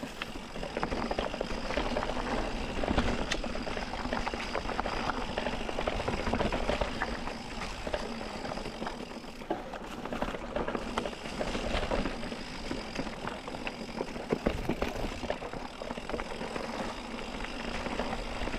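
Mountain bike riding over a rough dirt singletrack trail: steady tyre noise with constant rattling and knocking of the bike over the uneven ground.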